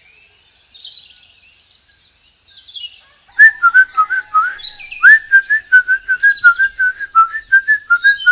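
Bird-like whistled chirping: faint high twittering at first, then from about three seconds in a loud run of quick repeated whistled notes, several a second, each starting with a short upward swoop.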